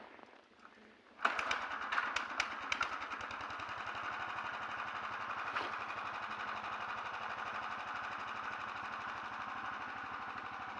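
Small engine of a 9 hp motor tow sled starting up about a second in with a few sharp clicks, then running steadily with a fast even beat.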